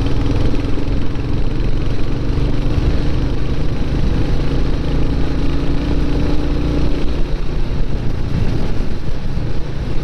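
Motorcycle engine running steadily while riding, heard from the rider's own bike.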